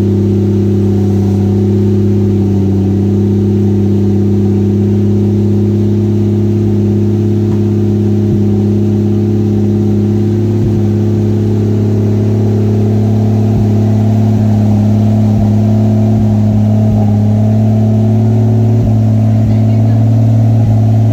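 A 2JZ-GTE twin-turbo straight-six swapped into a Lexus IS300, running steadily at a constant speed on its first start-up, before it has been tuned. It gets slightly louder near the end.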